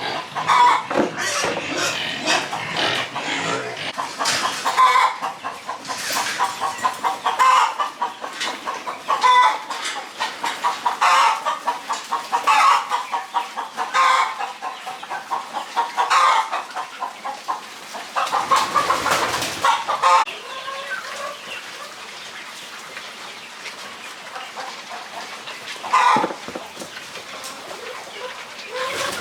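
Farm animals calling over and over in short calls, with a longer call about nineteen seconds in.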